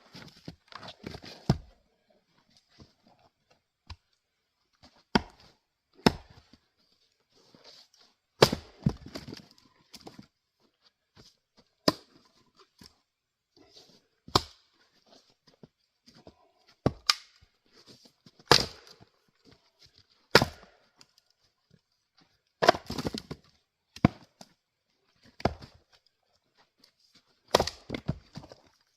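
Adirondack single-bit axe chopping firewood: well over a dozen sharp strikes into wood, a second or two apart, at an uneven pace.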